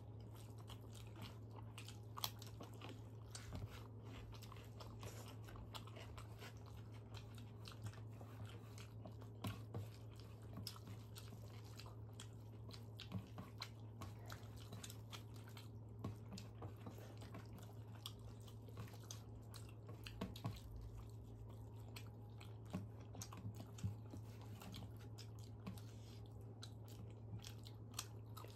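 Two people eating rice and fried vegetables by hand: faint chewing and mouth sounds with irregular small clicks and crunches, over a steady low hum.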